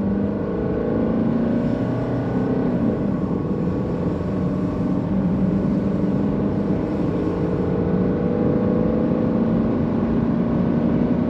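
Mercedes-Benz 190D (W201) diesel engine at full throttle, accelerating hard. The engine pitch climbs steadily, with a break about three seconds in, then keeps rising slowly.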